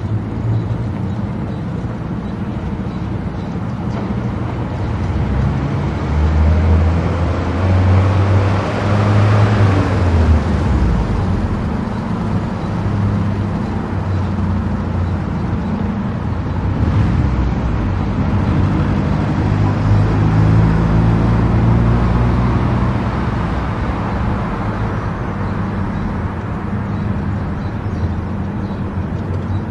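Car driving at speed on an expressway: steady engine drone and tyre-on-road noise, swelling louder about ten seconds in and again around twenty seconds.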